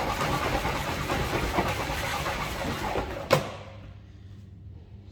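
Henry HVR200 620 W vacuum cleaner motor running with a steady rush of air, then a sharp click about three seconds in as it is switched off, and the motor winds down.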